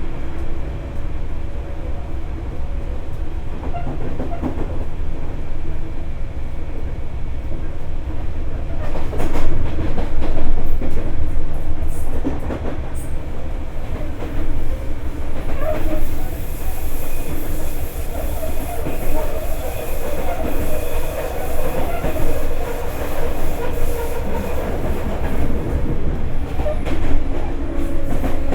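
A Sotetsu 8000 series electric train with Hitachi GTO-VVVF control, running between stations and heard from inside the car. The wheels rumble steadily on the rails and clack over rail joints, over a few steady tones from the running gear.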